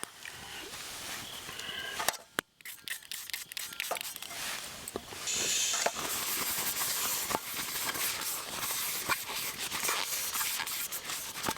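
Wiping grease out of a still-warm cooking pot with paper: steady rustling and rubbing, with scattered light clicks and knocks.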